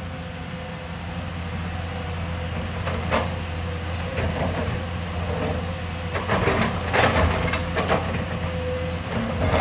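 Hyundai excavator's diesel engine running steadily with a constant hydraulic whine. Irregular metal clanks and scraping come in about three seconds in and grow busier from about six seconds on.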